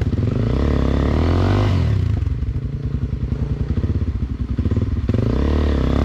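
Trail motorcycle engine revving. The pitch rises in the first second and drops back by about two seconds in, then runs lower before revving up again near the end.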